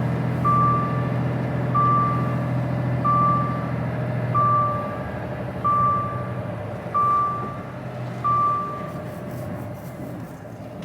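Lorry reversing alarm beeping about once every 1.3 seconds, seven times, stopping about eight and a half seconds in, over the truck's diesel engine running; the engine note drops about four and a half seconds in.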